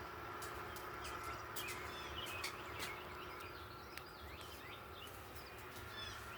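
Wild birds chirping in quick clusters of short, sliding notes, over a steady low background hum with a few sharp clicks.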